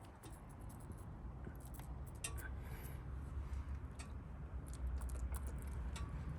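Irregular small sharp clicks and clinks over a low rumble that grows louder after about two seconds.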